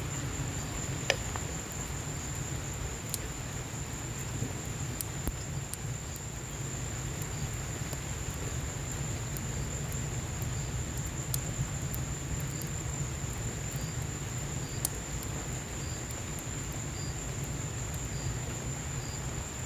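Wood fire in a patio fireplace crackling, with scattered sharp pops, over a steady low rush of rain. A continuous high-pitched trill runs underneath.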